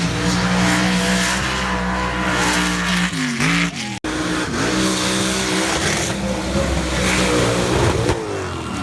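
Mega mud truck's engine running hard at high revs, its pitch dipping briefly and climbing back about three seconds in. An abrupt cut about four seconds in, then the engine again at high revs, easing off near the end.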